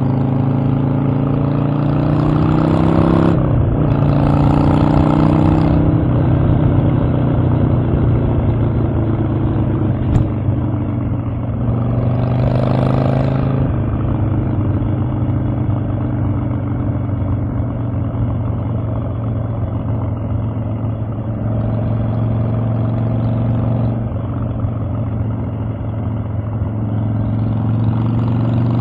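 Harley-Davidson Evolution V-twin engine running on the move. It accelerates at first, with a sudden drop in pitch about three seconds in like a gear change, and pulls again before settling into a steady cruise with another short rise near the middle.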